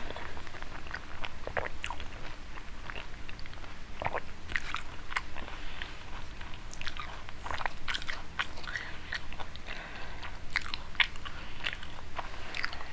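A person chewing a mouthful of panipuri close to the microphone: an irregular run of short crunches and wet mouth clicks.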